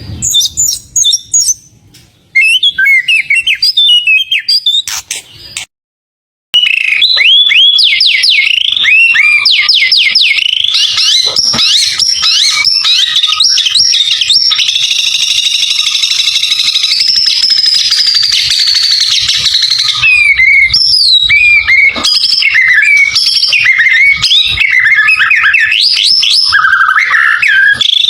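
White-rumped shama (murai batu) singing a loud, fast, varied song of whistled glides and chattering trills, breaking off for about a second near six seconds in.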